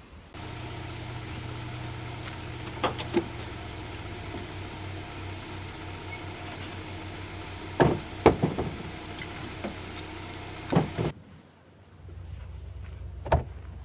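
A steady motor hum with several sharp knocks and clunks over it. The hum cuts off suddenly about eleven seconds in, and a lower steady hum comes in a second later.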